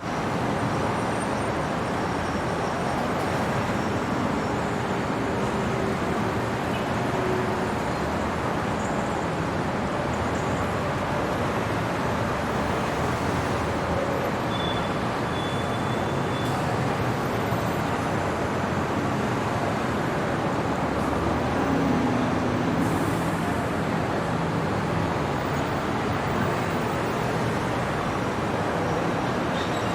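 Steady city traffic noise: a continuous wash of distant vehicles on roads, with a few faint, brief high tones over it.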